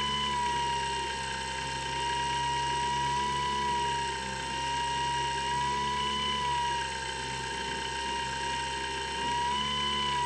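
Electric motor and propeller of a Skywalker X7 flying-wing model plane whining steadily in flight, the pitch and level dipping slightly a few times.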